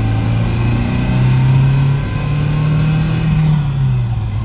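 Nissan 240SX S14's naturally aspirated KA24 four-cylinder engine accelerating, heard from inside the cabin, pulling away from a hill start. The revs climb steadily for about three seconds, then fall off near the end.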